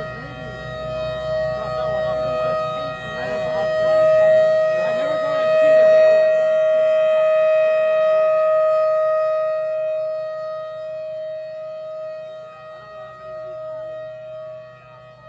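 Squarehorn Hurricane outdoor warning siren sounding a steady, high tone. It swells to its loudest around the middle and then slowly fades.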